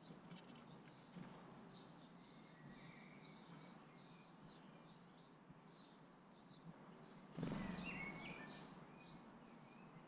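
Faint chirping of small garden birds, short scattered calls. About seven and a half seconds in comes a brief louder rush of noise with chirps, lasting about a second, fitting a house sparrow's wings as it flies off the watering can.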